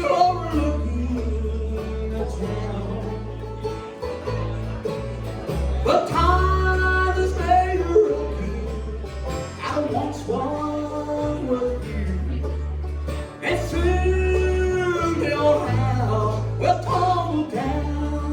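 Bluegrass band playing live: banjo and guitar over low bass notes that step along about once a second, with a gliding melody line on top.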